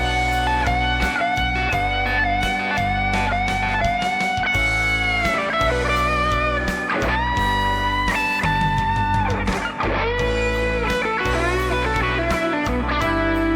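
Suhr Classic S Antique electric guitar through the Neural DSP Morgan amp plugin, playing a classic-rock lead over a backing track with drums. It holds long notes with wavy vibrato, bends notes up in pitch, and plays a quick run of notes near the end.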